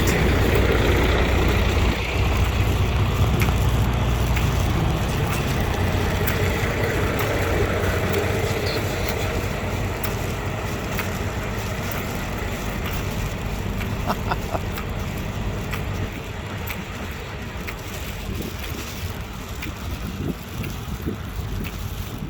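Freightliner Coronado glider semi truck running, a steady low rumble that drops off about five seconds in and then slowly gets quieter.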